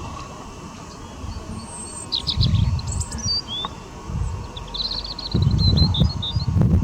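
Small birds chirping and trilling in short, high-pitched bursts, about two seconds in and again from about five seconds, over low rumbles.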